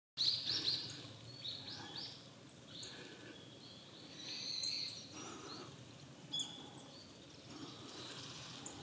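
Small woodland birds giving short, high calls, several in quick succession near the start, then spaced out every second or so, with a longer buzzy note about halfway.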